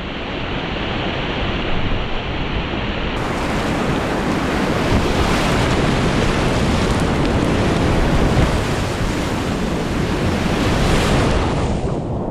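Whitewater rushing through a river rapid, a loud steady wash of water, with wind buffeting the microphone.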